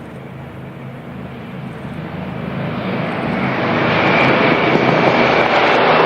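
Boeing C-97 Stratofreighter's four Pratt & Whitney R-4360 radial piston engines running, the sound growing steadily louder over the first four seconds and then holding loud.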